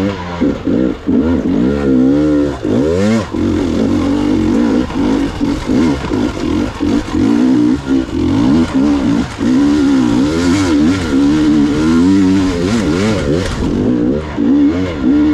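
Gas Gas EX 300 two-stroke enduro motorcycle engine being ridden, its revs rising and falling again and again with short bursts of throttle.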